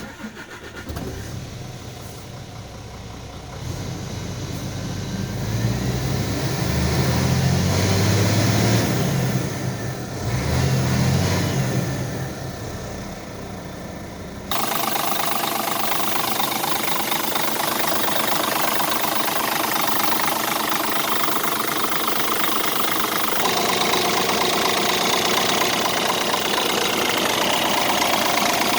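Scania R tractor unit's diesel engine starting and idling, revved up and down a couple of times. About halfway through, the sound changes abruptly to a steady idle heard from a different position.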